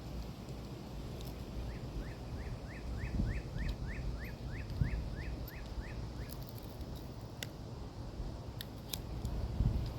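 A bird singing a quick run of about fifteen short, falling chirps, about three a second, lasting some four seconds, over a low outdoor rumble. A few sharp clicks come near the end.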